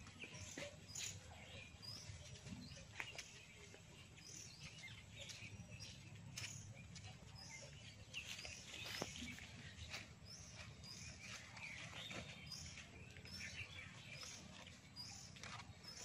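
Faint rural outdoor ambience: a bird gives a short high chirp over and over, about one every second, with scattered light clicks and knocks.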